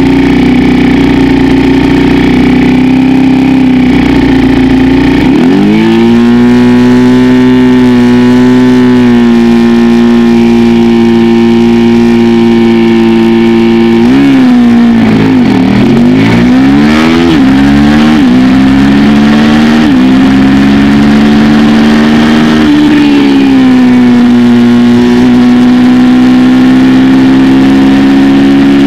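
Suzuki SV650's V-twin engine heard onboard: it runs steadily on the start grid, then about five seconds in is revved up and held at raised revs for the start. About fourteen seconds in it launches, climbing and dropping in pitch through several quick upshifts, then settles to steady revs through the corner.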